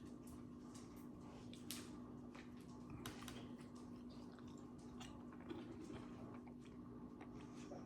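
Faint chewing and mouth sounds of someone eating, scattered soft clicks, over a steady low hum.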